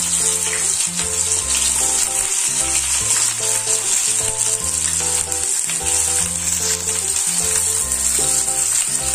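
Sliced onions frying in hot oil in an iron kadhai, a steady sizzling hiss. A background music track with notes that change every half second or so plays under it.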